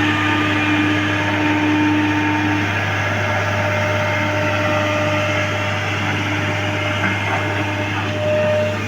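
A John Deere excavator's diesel engine running steadily: a constant low hum with a faint whine above it that fades in and out.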